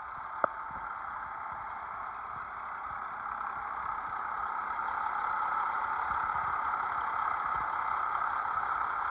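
Caterpillar 3406B inline-six diesel idling steadily, getting louder through the second half, with one sharp click about half a second in.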